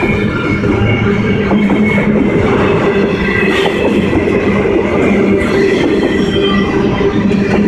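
Double-stack container cars of a long freight train rolling past, a steady loud rumble of steel wheels on rail with a thin, wavering high squeal from the wheels.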